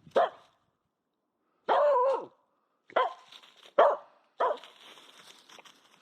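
Finnish Spitz barking five times: short sharp barks with one longer, drawn-out bark about two seconds in. These are hunting barks at game she has spotted, which the owner takes for a bird.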